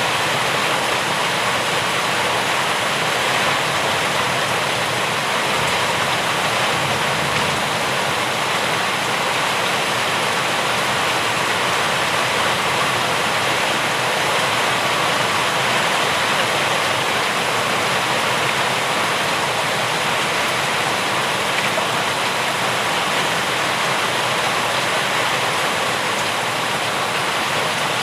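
Steady rain falling, a dense, even hiss of water that does not let up.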